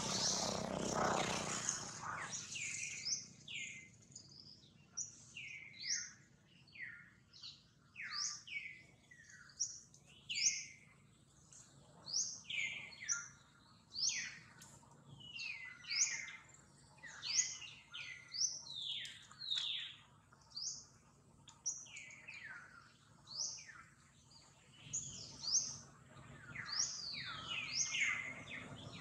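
Birds chirping: a run of short, high, downward-sliding chirps, one or two a second and often overlapping, with a brief rush of noise in the first couple of seconds.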